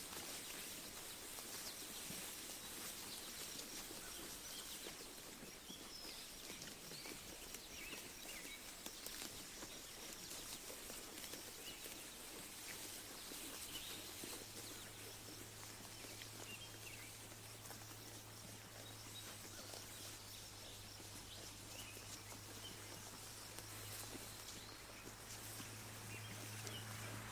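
Quiet rural pasture ambience: a steady faint hiss with scattered brief bird chirps. A low steady hum joins about halfway through.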